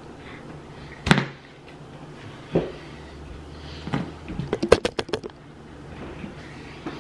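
Close-miked chewing of a mouthful of fries: a couple of single wet mouth clicks, then a quick run of about ten smacking clicks about two-thirds of the way through.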